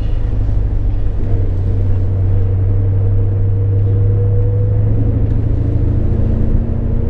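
Ford Mustang engine running steadily under way, heard from inside the cabin as a deep drone; the engine note shifts about five seconds in.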